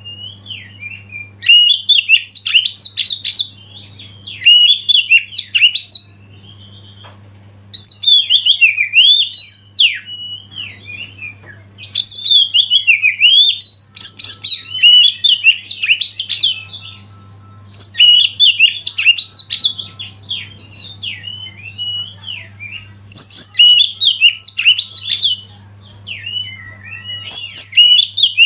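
Oriental magpie-robin (kacer) singing: bursts of rapid, varied whistles and chattering notes a few seconds long, broken by short pauses, over a faint steady low hum.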